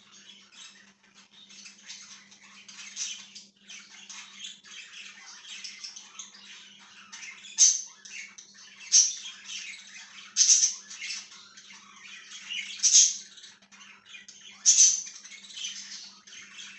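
A flock of pet budgerigars chattering and warbling continuously, with five loud, sharp squawks in the second half.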